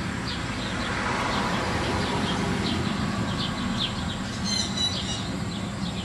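Small birds chirping again and again in short, high notes, with a brighter call about four and a half seconds in, over a steady low rumble.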